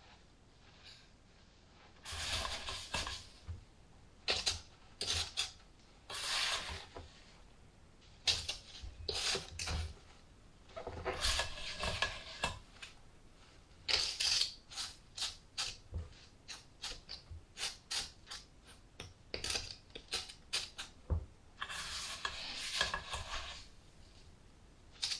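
Damp perlite being scooped and pushed around a container while a philodendron is potted up, a gritty crunching and rustling in irregular bursts with some sharp clicks, starting about two seconds in.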